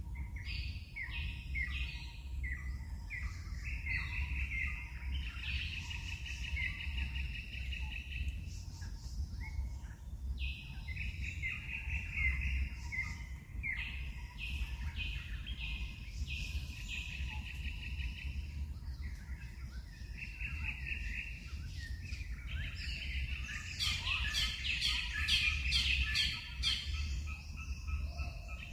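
Wild birds calling in the forest: repeated short trilled and chirping calls, with a louder flurry of sharp chirps near the end, over a steady low rumble.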